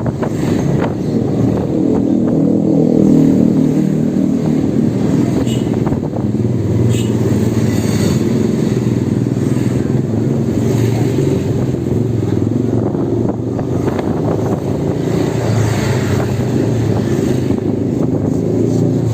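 Electric motorbike on the move, a steady low rumble.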